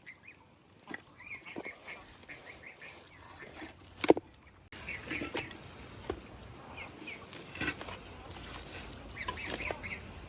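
Farmyard fowl calling: many short high chirps, with one loud, lower call about four seconds in.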